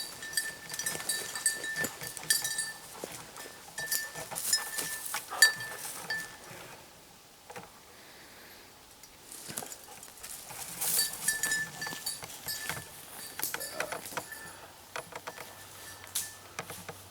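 A small bell jingling on and off, with a ringing note that fades in and out, among rustling and snapping twigs from movement through brush. The jingling is busiest in the first six seconds and again around eleven seconds, with a quieter gap between.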